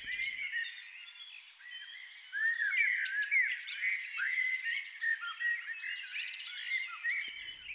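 Several birds chirping, with short overlapping calls that become busier and louder from about two seconds in.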